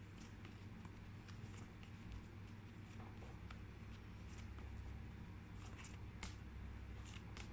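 Faint handling of paper cards: a few light clicks and rustles over a steady low hum in a quiet small room.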